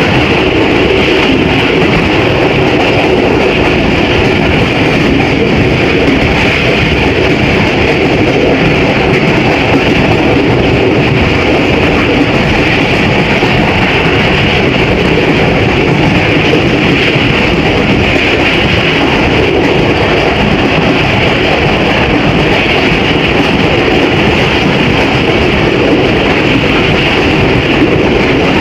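Steady running noise of a moving passenger train on the track, a continuous rumble and hiss with no distinct clicks.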